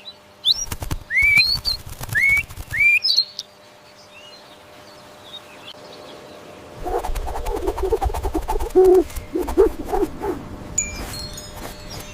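A bird chirping: four quick, upward-sweeping whistled notes in the first few seconds. About halfway through, a lower run of short, pulsing calls comes in over a low rumble.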